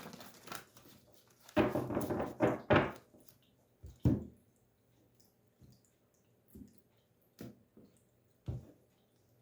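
Tarot cards being handled: a few loud rustling bursts of shuffling in the first three seconds, then several short, separate taps as cards are handled and set down.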